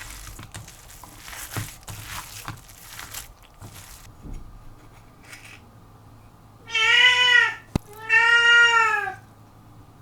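A cat meowing twice: two drawn-out meows that rise and fall in pitch, about a second apart in the second half, after some light clatter.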